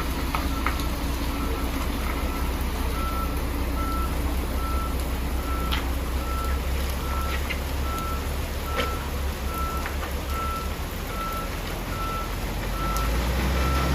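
A truck's reversing alarm beeping steadily, about two beeps a second, over the low rumble of a heavy truck engine.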